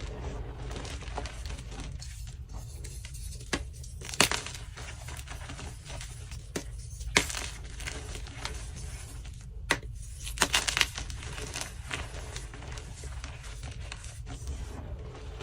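Dyed BSN gym chalk blocks being crushed, with soft crumbling and gritty scraping broken by sharp cracks: one about four seconds in, one around seven seconds, and a quick cluster near ten to eleven seconds.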